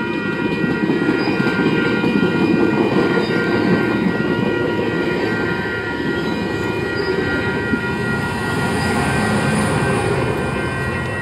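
AMT bilevel commuter train passing over a level crossing: a dense rumble of wheels on rail, loudest in the first few seconds. Steady ringing tones from the crossing's warning bell sound over it.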